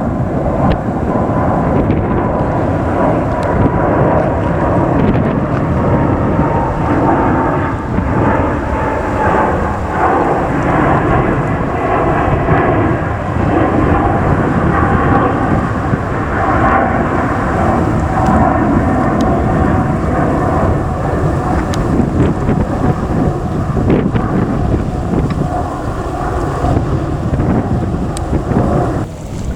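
Jet airliner's engines rumbling loudly as it passes close by, with an engine whine slowly falling in pitch. Wind buffets the microphone. The sound drops away suddenly near the end.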